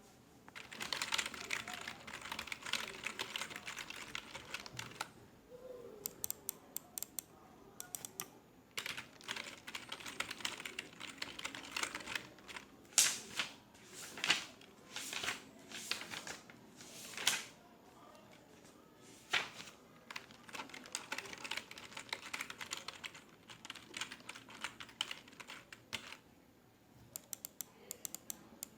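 Computer keyboard typing in bursts: fast runs of key clicks broken by short pauses, with a few louder single clicks in the middle.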